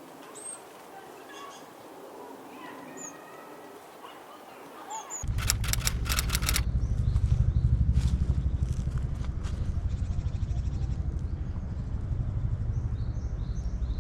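Faint, short high bird chirps. About five seconds in, a loud low rumble starts with a quick cluster of clicks and carries on, drowning the birds, with a few faint chirps again near the end.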